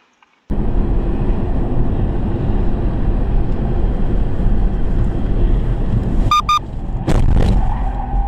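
Steady low road and engine rumble of a moving car, heard from inside the vehicle, starting suddenly about half a second in. About six seconds in come two short beeps, then two sharp knocks.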